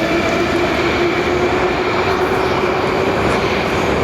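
Moscow Metro train running, a loud steady rumble with a high whine and a lower motor tone that slowly falls in pitch.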